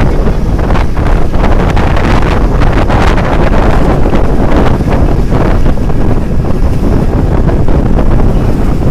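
Loud, steady wind buffeting the microphone, with a heavy low rumble and crackling gusts.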